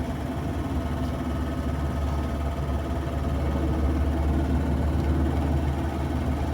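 Car running along the road, heard from inside the cabin: a steady low rumble of engine and road noise.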